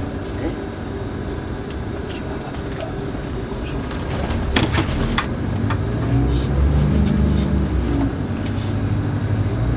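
Scania K410IB coach engine and road noise heard from inside the cabin, with a few knocks or rattles near the middle. About six seconds in, the engine note grows louder.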